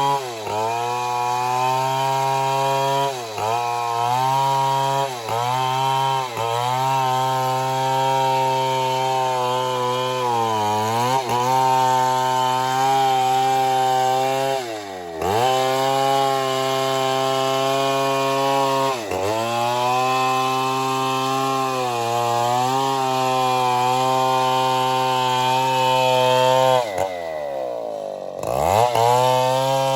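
Stihl 070 two-stroke chainsaw running at high revs while sawing wood, its pitch dipping briefly again and again as the engine bogs under load, with one deep drop and recovery near the end.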